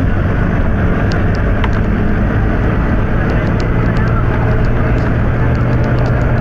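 Volvo B9TL double-decker bus's diesel engine running steadily with a constant low hum, with light rattling clicks from the bus's fittings throughout.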